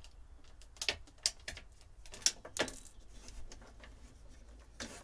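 Scattered sharp metallic clicks and clinks, about six at irregular spacing, from tools and hardware being handled while old wiring is pulled out of a boat.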